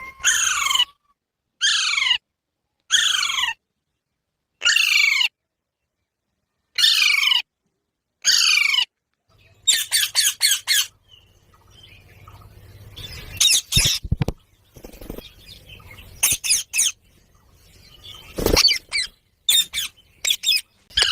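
Pet Indian ringneck parakeet screeching: about seven loud, steeply falling squawks come one after another every second or two. After that it breaks into quicker runs of shorter, harsher calls.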